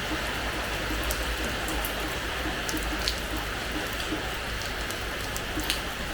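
Steady rain falling on a terrace floor, an even hiss with many individual drops splashing on the hard surface, a few louder ones standing out about three seconds in and near the end.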